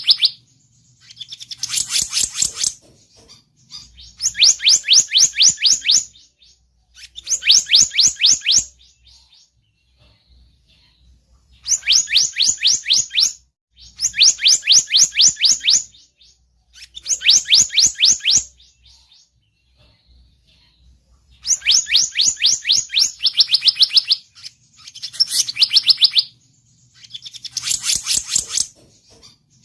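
Bird-lure recording of the selendang biru's call: about nine bursts of rapid, high, evenly spaced chirps, each lasting one to two seconds, with short pauses between them.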